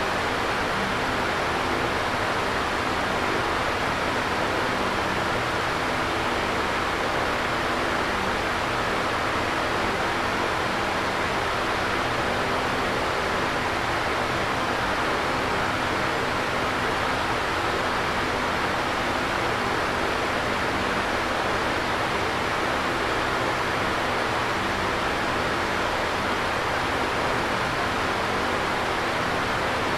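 Electric fan running steadily: an even whooshing rush of moving air with a faint low hum underneath, no change in speed.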